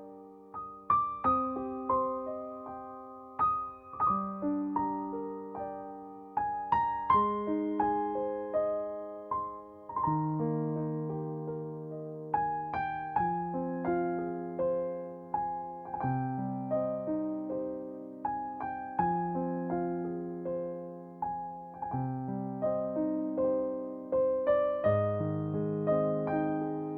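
Solo piano music: a slow, gentle piece of struck notes and chords, each note fading away.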